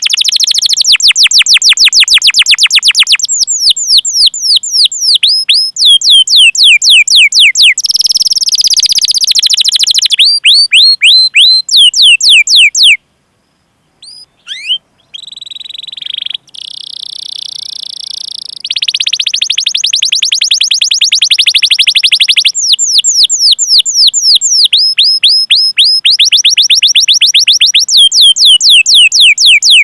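Canary singing long rolling trills, strings of rapid falling 'cuit cuit' chirps repeated many times a second, broken by short pauses and a brief silence about halfway through.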